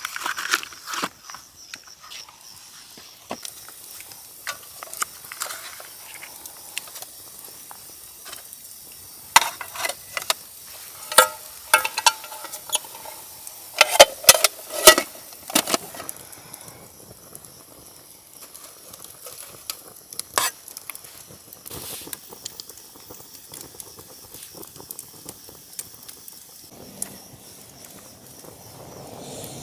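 Scattered sharp clicks and small knocks, with a run of loud, ringing metal clinks and clatters about eleven to sixteen seconds in, as of metal camp cookware being handled beside a crackling campfire.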